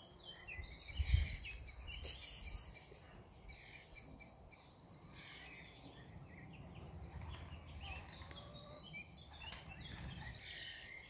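Small birds chirping in short, scattered calls over a low rumble, with a loud thump about a second in.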